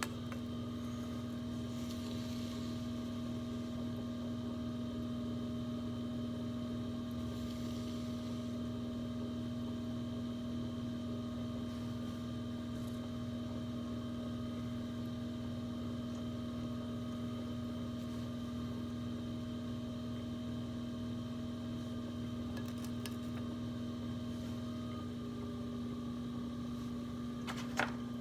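Electric potter's wheel motor running with a steady hum. A brief click sounds near the end.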